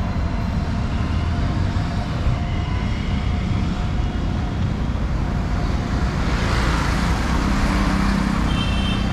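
Street traffic with motor vehicles running close by in a steady rumble. A vehicle passes louder from about six seconds in.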